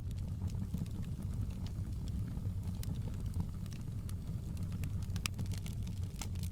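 Wood fire burning in a fireplace: a steady low rumble of the flames with irregular sharp crackles and pops, a louder pop about five seconds in.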